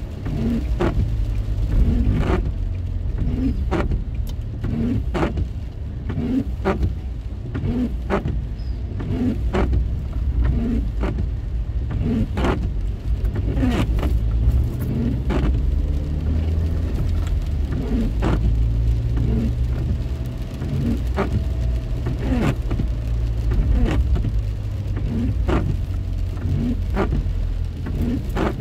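Car driving, heard from inside the cabin: a steady low road and engine rumble with a short, regular knock about once a second.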